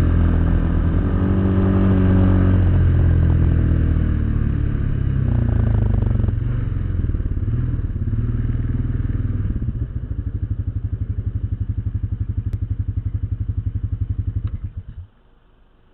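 ATV engine coming off speed, its note dropping, then settling into a steady, evenly pulsing idle. About fifteen seconds in it is switched off and stops suddenly.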